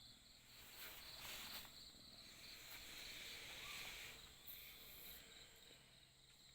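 Near silence with faint, steady insect chirring, like crickets, and a few soft rustles about a second in.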